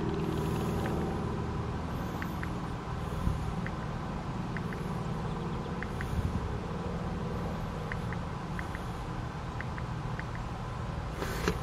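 Steady low hum of a vehicle engine idling, with a few faint, irregular light ticks.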